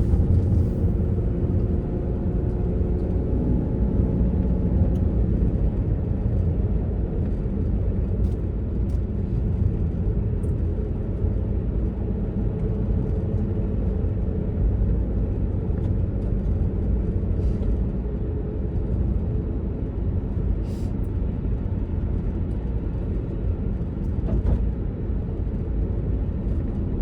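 A 2005 Land Rover Freelander's 2.5-litre V6 and road noise while driving at a steady speed: a steady low drone. The engine note is clearest in the first several seconds, then settles into the rumble.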